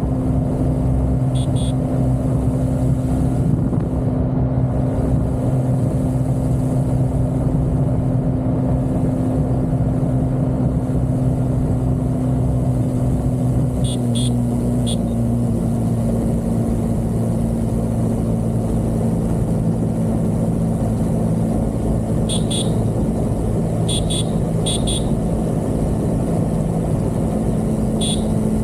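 A vehicle's engine running at a steady cruising pitch, with road noise. The pitch shifts slightly about halfway and again near the end. A few brief, high clicks come now and then.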